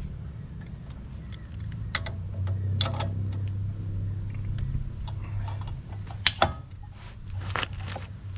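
Sharp metal clanks and clicks, about six in irregular succession with the two loudest close together past the middle, as the skid steer's Quick-Tach latch parts are tapped and worked into place. A steady low hum runs underneath.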